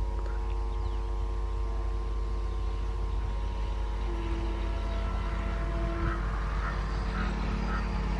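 An express train hauled by an electric locomotive approaching at speed: a steady low rumble with a hum of several steady tones.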